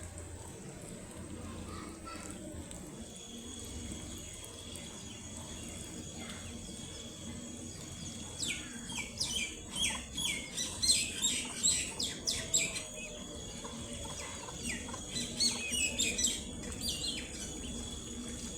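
Ducklings peeping: a quick, overlapping run of short, high, falling peeps that starts about halfway through and fades near the end, over a faint steady background hum.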